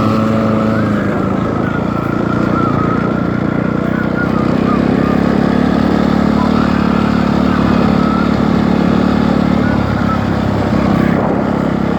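Dirt bike engine running steadily while being ridden, its pitch dipping briefly about ten seconds in.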